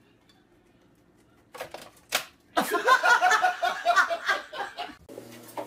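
Near silence, then a few sharp knocks and a loud burst of people laughing in short rapid pulses.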